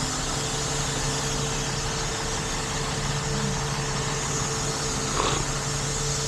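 Heavy truck engine idling steadily with a constant hum, and a brief faint noise about five seconds in.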